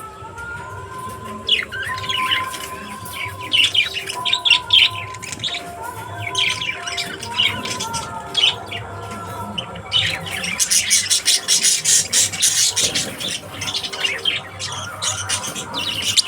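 Pet lovebirds chattering with rapid, high squawks and chirps, growing busier and denser near the end.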